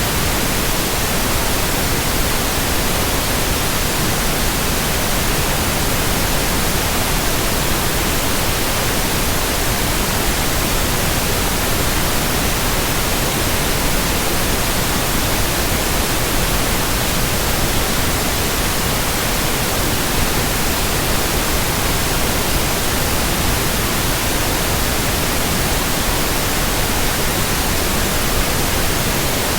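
Steady white noise: an even, unchanging hiss spread evenly from the lowest to the highest pitches, with no rhythm, tone or swell.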